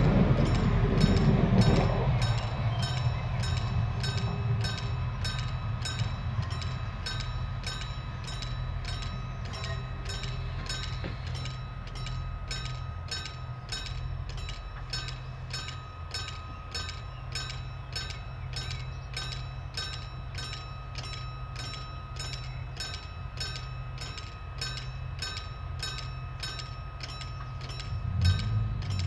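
ATR 220 diesel multiple unit rumbling in close by and slowing in the first two seconds, then the standing trains' diesel engines idling with a low steady hum. A level-crossing bell rings with rapid regular strikes throughout, and the engine note rises again near the end.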